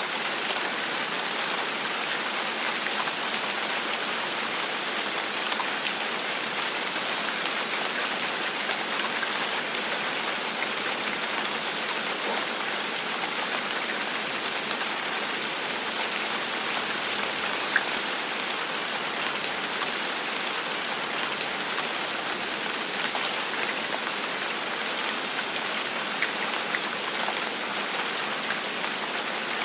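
Steady gentle rain falling on a surface, an even hiss of many drops with scattered individual drop ticks and one sharper drip about two-thirds of the way through.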